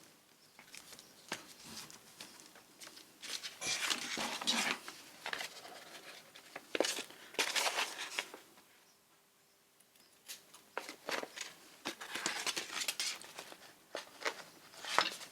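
Paper being handled and crinkled at a craft table, in irregular spells of rustling with a quiet pause partway through.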